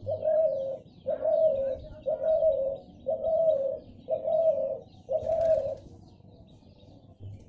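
A bird giving six low calls of about two-thirds of a second each, one roughly every second, stopping about six seconds in.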